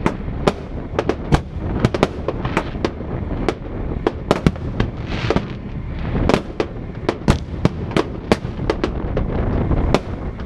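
Fireworks display: rapid, irregular bangs of bursting shells, several a second, over a continuous low rumble, with a brief crackling hiss about five seconds in.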